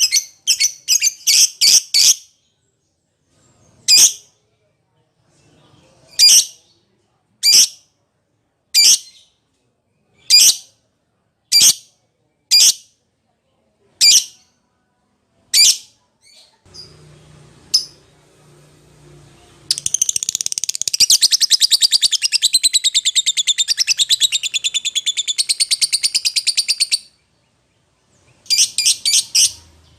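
Lovebird calling with shrill, high-pitched chirps. A quick run of about six calls opens the stretch, then single calls come about once every second or so. A fast continuous chatter lasts about seven seconds, and a short burst of calls comes near the end. These are contact calls to a companion or rival.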